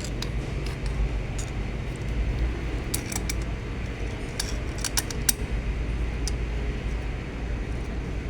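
Metal hand tools clinking and clattering against each other, a few sharp clinks in the middle, as wrenches are picked through to find the right size; a steady low rumble runs underneath.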